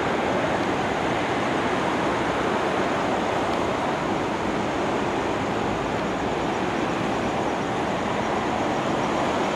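Steady running noise of an MTR East Rail Line electric multiple-unit train moving through the station, with no distinct clicks or squeals.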